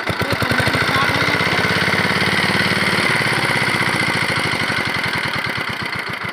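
Diesel water-pump engine running with a rapid, even knocking beat, the firing slowing toward the end.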